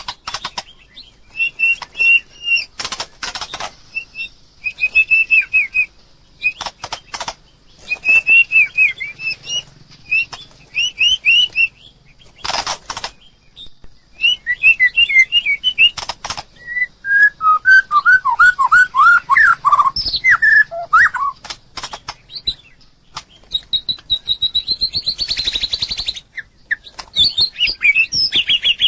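White-rumped shama singing: a varied run of quick whistled and chirped phrases, including a series of falling notes in the middle, with brief harsh noisy sounds between phrases.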